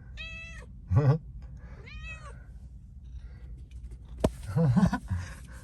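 A cat meowing twice, the calls about a second and a half apart. Short, louder low voice sounds come about a second in and again near the end, with a sharp click just before the second.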